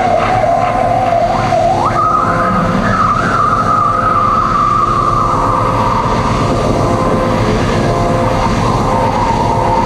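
Loud droning experimental electronic noise music: a dense rumbling wash under a whining tone that slides sharply up about two seconds in, then slowly sinks lower.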